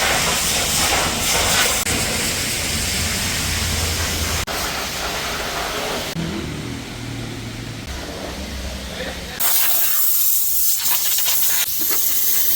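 High-pressure water spray hissing against a car, with a low hum beneath; the sound changes abruptly three times.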